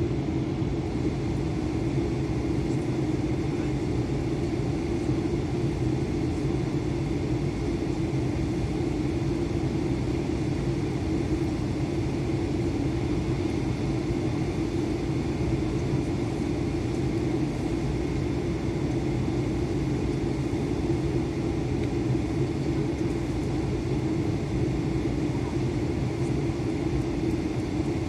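Steady cabin noise of an Airbus A320 in flight: the jet engines and airflow drone evenly, without change.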